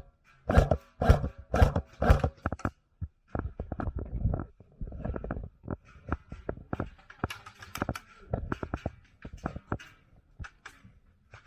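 Running footsteps, about two thumps a second for the first few seconds, then many irregular sharp clicks and knocks.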